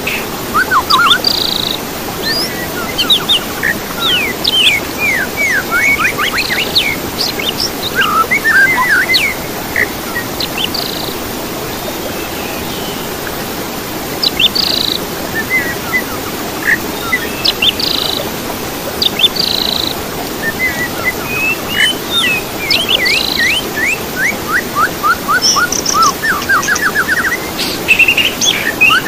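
Songbird singing in varied phrases of quick chirps, sharp up-and-down notes and rapid trills, with short pauses between phrases, over a steady hiss.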